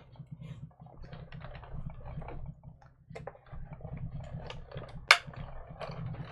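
A die-cutting machine runs a metal die and cardstock through in one pass. Small clicks and rattles keep up throughout, with one sharp loud click about five seconds in.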